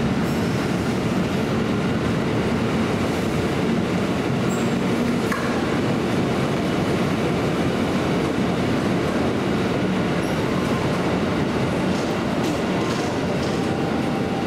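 Electric commuter train running through a station, a steady rumble of wheels on the track heard from on board, with a few sharp clicks near the end.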